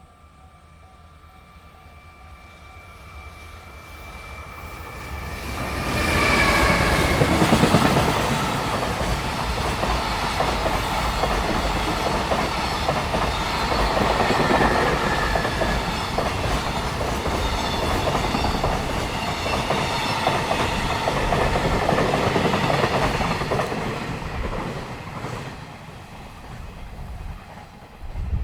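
Freight train passing at speed on the rails. A faint steady whine grows as it approaches. From about six seconds in, wheel-on-rail rumble and clatter of the wagons runs loud for nearly twenty seconds, then fades near the end.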